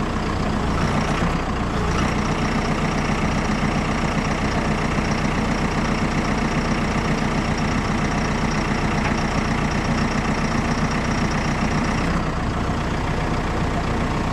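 Farm tractor engine running steadily. A high steady whine rides over it from about two seconds in until about twelve seconds in, while the 15-foot cutter's deck is being folded.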